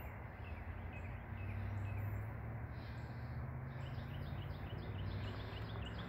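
Small birds chirping in the trees, scattered single chirps and then a quick run of repeated high chirps in the second half, over a steady low outdoor rumble.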